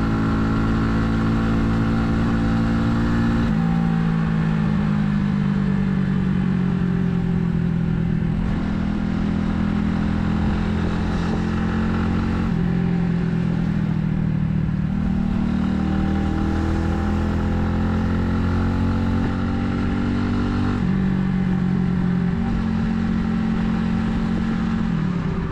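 Italika 250Z motorcycle's single-cylinder engine running under way, its note changing in steps every few seconds with slow rises and falls between, as the rider works the throttle and gears.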